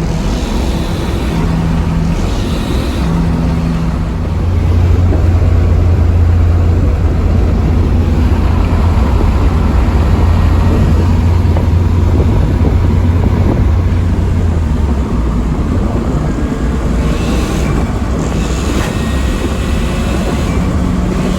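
Turbocharged SR20 four-cylinder engine of a Nissan 240SX running while the car is driven. A louder, deeper drone sets in about four seconds in and lasts until about fifteen seconds in, then eases off.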